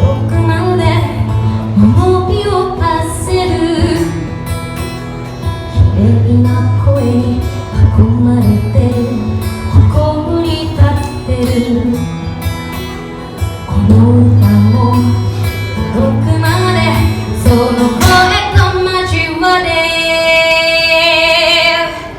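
Live acoustic guitar music with a woman singing: strummed and picked guitar under a sung melody, with a long held note near the end.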